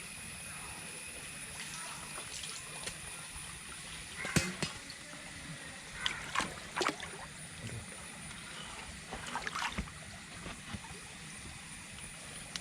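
Water sloshing and splashing as someone works in a flooded, mud-clogged drain. Short splashes or knocks come about four seconds in, around six to seven seconds, and near ten seconds, over a steady hiss of moving water.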